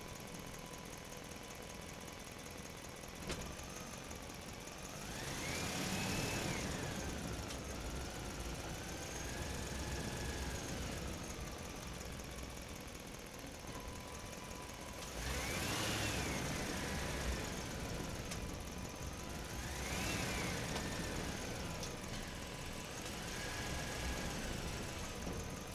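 A motor running, its whine rising and falling in pitch four times as it speeds up and slows down.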